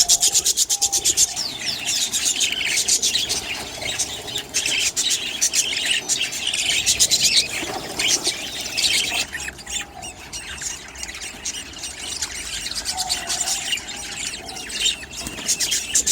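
Budgerigar chicks making rapid, raspy scratching and rustling sounds mixed with high squeaky chirps.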